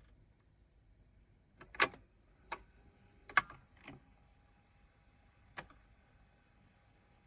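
Surface clicks and pops from a 45 rpm vinyl record under the stylus, about five scattered sharp clicks, two of them loud, over faint steady hiss.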